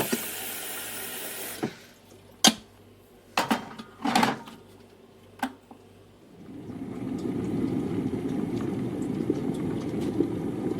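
Kitchen sounds: a tap runs briefly, then a few sharp clinks and knocks of cups or dishes, then a steady low rushing sound builds in the last few seconds.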